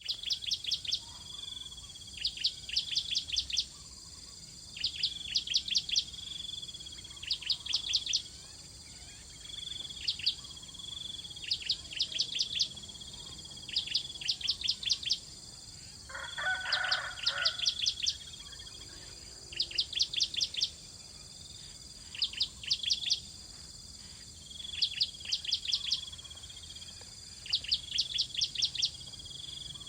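Bar-winged prinia (ciblek) calling: short bursts of four to six rapid, sharp, high notes, repeated about every two seconds over a faint steady high tone. A lower, buzzier chatter joins for about two seconds near the middle.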